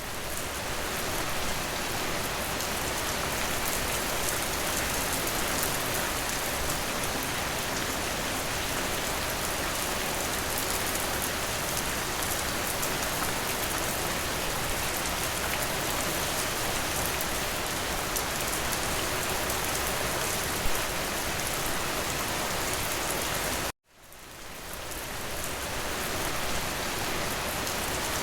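Steady rain falling in a dense, even patter. About 24 seconds in it cuts out abruptly and fades back in over a couple of seconds.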